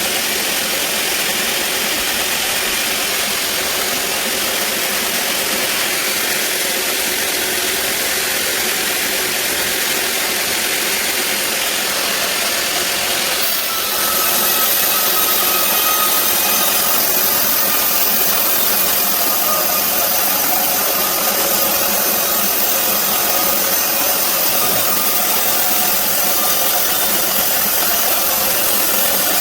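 Sawmill band saw running steadily through a teak log. About halfway through the sound steps up, louder and brighter, and holds there.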